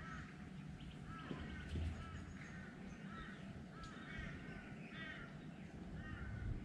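Faint birds calling: short squawking calls repeated in quick clusters throughout, over a low outdoor rumble.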